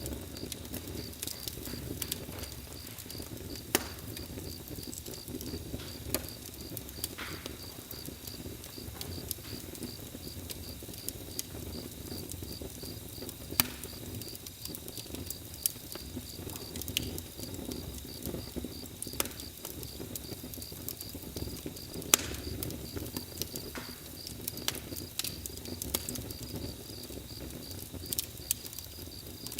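Campfire burning, crackling with irregular sharp pops over a low bed of crackle. A cricket chirps in a steady, even pulse throughout.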